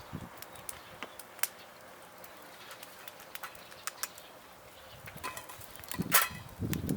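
Wood fire crackling in a fire stand, with scattered sharp pops, and a louder cluster of knocks near the end.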